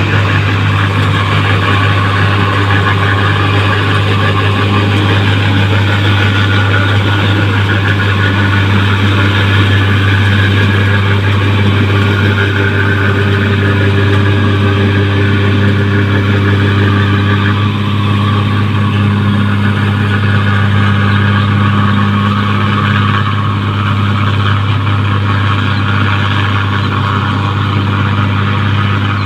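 New Holland 1545 combine harvester running steadily: a constant low engine hum with the rattle of its working machinery over it.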